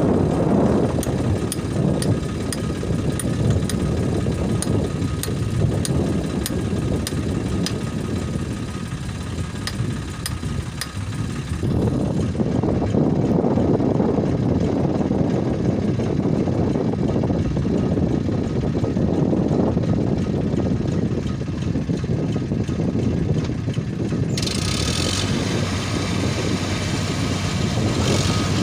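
Eicher 557 4WD tractor's diesel engine running steadily while working a rotavator, with a faint regular ticking through the first half. The sound changes abruptly twice, about halfway through and near the end.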